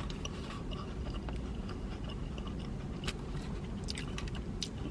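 A person chewing food close to the microphone, with small wet mouth clicks and smacks over a steady low background rumble.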